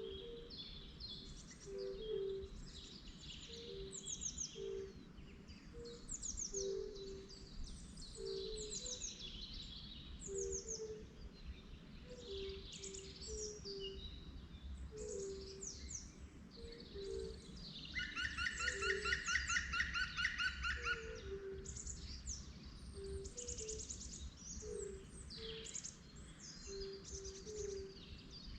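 Many birds chirping and singing together, with a low two-note call repeating roughly every second throughout. About two-thirds of the way in, a loud rattling trill lasts about three seconds, the loudest sound here.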